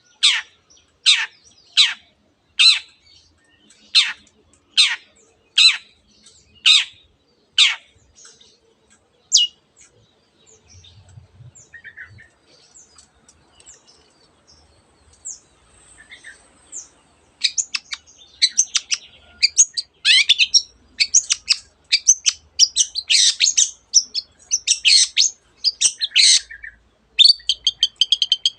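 Long-tailed shrike (cendet) singing. It opens with about nine loud, downward-sweeping whistled notes, roughly one a second. After a lull of several seconds with only a few faint notes, it breaks into a fast, dense chattering song packed with mimicked phrases of other birds, canary among them.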